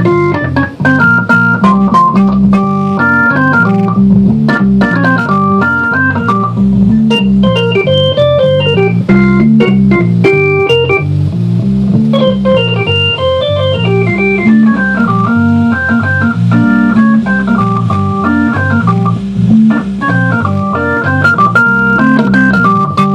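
Hammond A-100 tonewheel organ being played: a moving bass line under quick runs up and down the keyboard, with a short click at many of the note starts.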